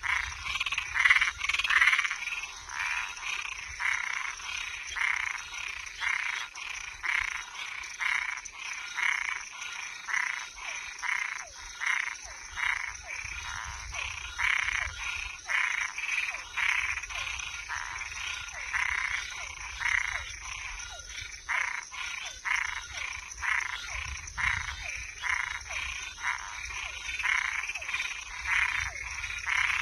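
Night chorus of frogs and tree frogs: many short croaking calls overlapping and repeating several times a second, over a steady high-pitched insect trill.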